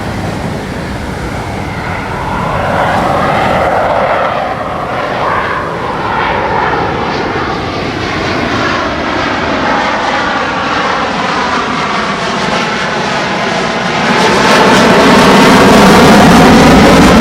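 Thunderbirds F-16 fighter jets flying past, their jet engine noise falling in pitch as they pass and move away. About fourteen seconds in it gets suddenly louder as another jet comes in close.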